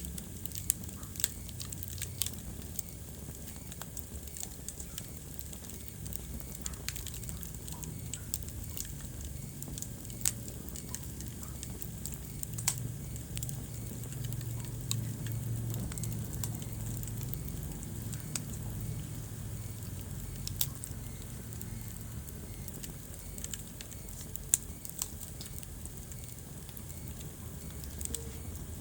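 Wood fire burning in a fireplace: irregular sharp crackles and pops over a low steady rumble of the flames, with a few louder pops scattered through.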